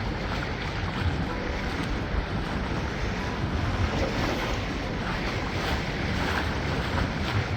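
Wind buffeting the microphone over a steady rush of water and waves.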